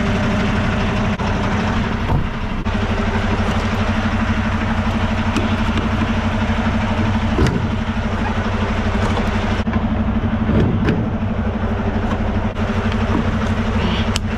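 Semi-truck diesel engine running steadily, with a few faint clicks.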